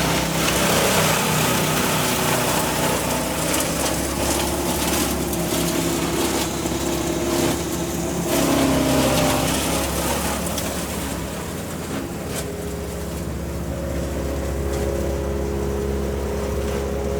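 An engine running steadily, with louder, noisier stretches in the first half that ease off later.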